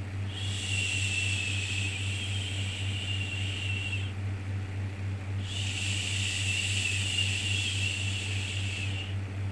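Shushing 'shhh' sound for soothing a baby: two long hisses of about three and a half seconds each with a short pause between, over a steady low rumble.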